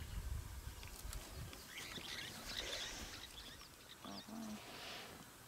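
Small birds chirping and twittering, a quick cluster of short high calls and whistles. A low rumble runs under the first second and a half, then fades.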